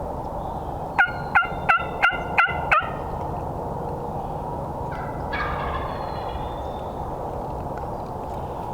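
Wild turkey calling: a quick run of six sharp notes about a second in, then a single longer call that falls in pitch around five seconds in.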